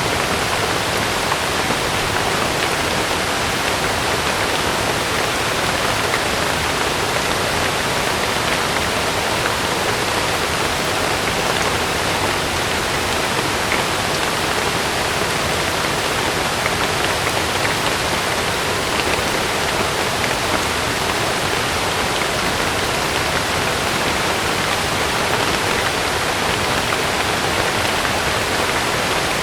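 Heavy rain falling on a camping tent, a steady, dense hiss of water with no breaks.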